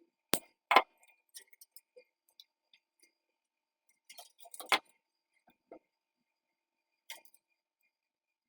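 Small hard parts being handled: a handful of sharp clicks and clacks, two close together near the start, a cluster about four to five seconds in and one more about seven seconds in, with faint ticks between.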